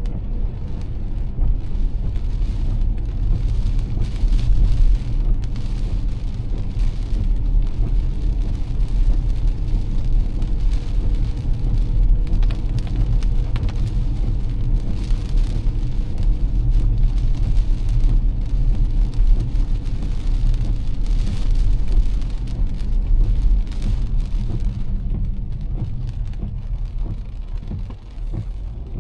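A car driving in heavy rain: a steady low engine and road rumble, with rain hiss and spatter on top that thins out near the end.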